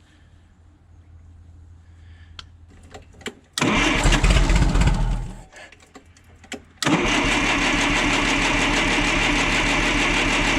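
Forklift's propane engine being cranked over: it catches for a moment about three and a half seconds in and dies, then cranks steadily again from about seven seconds in. The owner takes it to be flooding out on too much propane.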